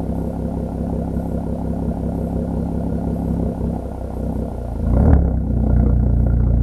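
Mk5 Golf R32's 3.2 VR6 engine through a decat, non-resonated Milltek exhaust, running steadily with a pulsing drone. The revs dip briefly, then about five seconds in there is a sharp burst and the exhaust grows louder and deeper as the engine pulls.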